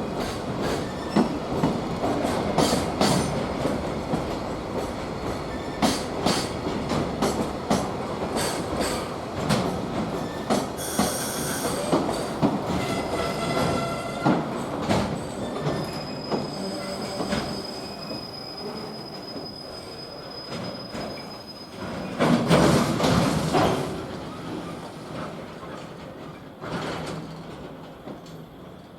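Freight train pulling into a station and slowing. Its wagons clack over rail joints and its wheels or brakes squeal in thin high tones, and it grows quieter as it slows. A brief louder noise comes about three-quarters of the way through.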